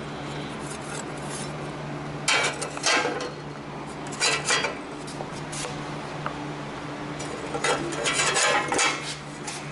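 Steel repair pieces clinking and scraping as they are handled, in several short clusters, over a steady low hum.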